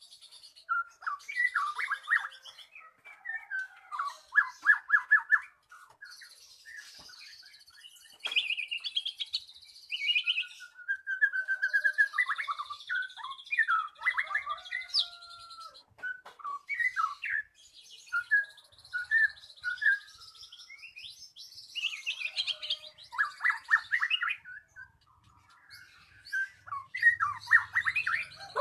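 White-rumped shama (murai batu) singing a long, varied song: fast rattling trills alternating with high thin phrases and short whistled notes, in bursts with brief pauses between.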